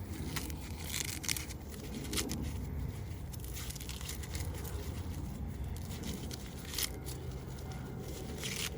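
Corn husks being torn and peeled back by hand from an ear of corn: irregular ripping and crinkling of the dry leaves as the ear is shucked.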